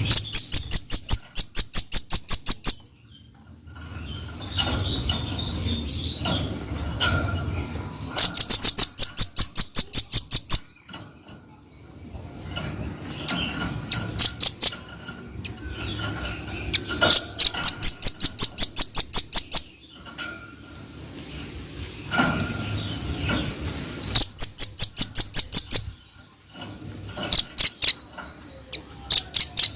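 Velvet-fronted nuthatch (red-billed rambatan) singing in loud rapid runs of sharp, high, evenly spaced notes, about five a second. Each run lasts two to three seconds and recurs several times, with softer chattering calls between the runs.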